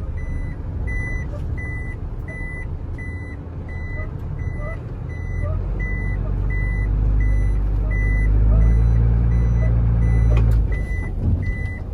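Truck reversing alarm beeping steadily, about twice a second, over the truck's engine running. The engine grows louder through the second half and drops back near the end.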